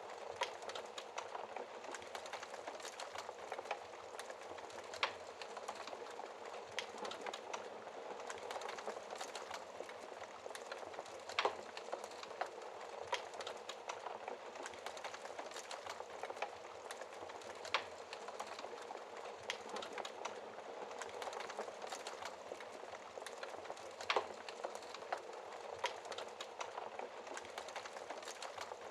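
Wood fire burning in a fireplace: a steady crackling hiss with irregular sharp pops, a few of them louder, about 11 and 24 seconds in.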